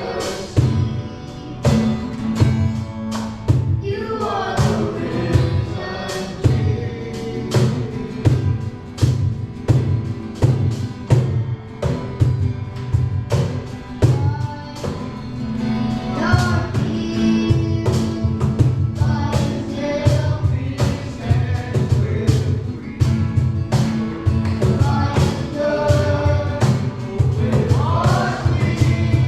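Worship song with several voices singing over a band, with a steady beat and bass.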